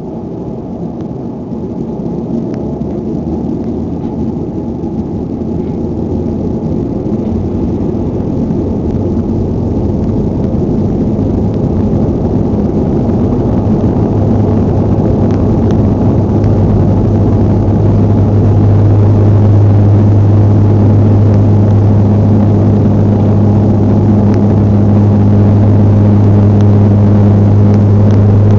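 Engines of a Bombardier regional airliner spooling up for takeoff: a steady low drone that grows louder over the first twenty seconds or so of the takeoff roll, then holds at full power.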